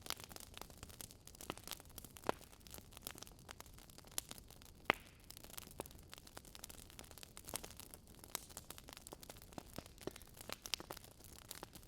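Campfire burning, the wood giving off frequent irregular crackles and pops over a soft steady hiss; one pop a little before the middle stands out as the loudest.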